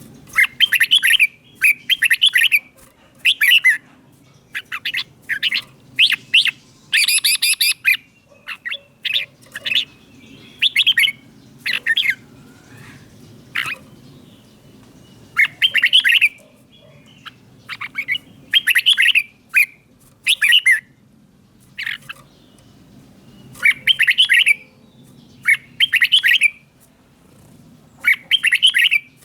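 Red-whiskered bulbul singing: short phrases of quick notes, repeated every second or two with brief pauses between.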